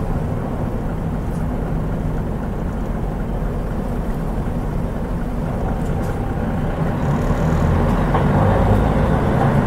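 Mitsubishi Fuso Aerostar KL-MP37JK city bus running, its turbocharged 6M70 six-cylinder diesel and drivetrain heard as a steady low rumble from inside the cabin. It grows slightly louder from about seven seconds in.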